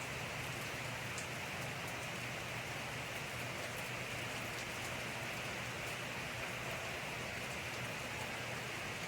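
Steady rain falling, an even hiss with scattered sharper drop ticks, over a low steady hum.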